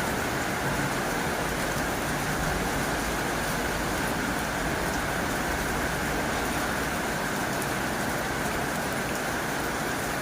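Heavy rain drumming steadily on a tin roof, a dense even patter without breaks.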